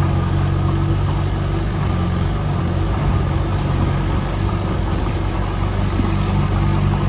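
Diesel engine of heavy earthmoving machinery running steadily at a constant low pitch, with a few faint light clicks over it.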